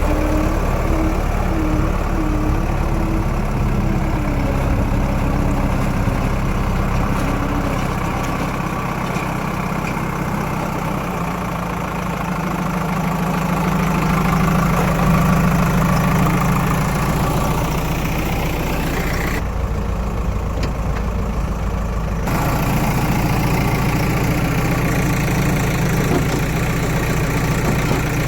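Diesel engine running steadily at low speed, a little louder around the middle.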